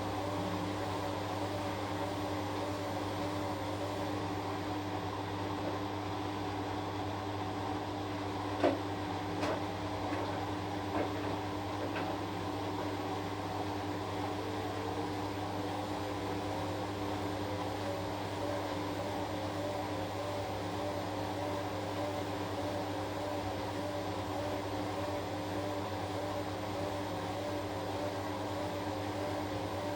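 Washing machine running: a steady motor hum with a tone that wavers evenly up and down, and a few brief knocks about a third of the way in.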